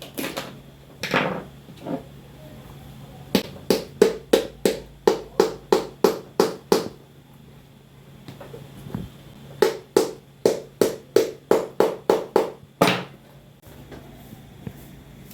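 A hammer striking a boot sole during resoling, in two quick runs of about a dozen blows each at three or four a second, then one heavier blow.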